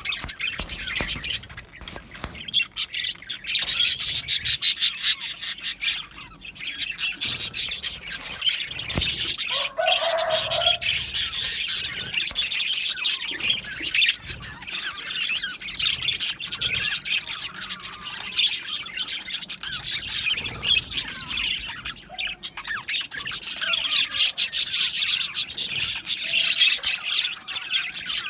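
A flock of budgerigars chirping and chattering together in a dense, continuous warble with many quick clicks. A brief lower call sounds about ten seconds in.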